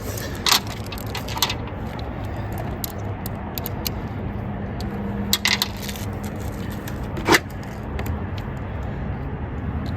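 Metal hand tools clinking a few separate times, over a steady low hum.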